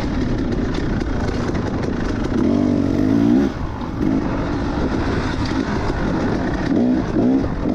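KTM 300 two-stroke single-cylinder dirt bike engine under way, the throttle worked on and off: the engine revs climb between about two and three and a half seconds in, drop suddenly as the throttle closes, and climb again near the end.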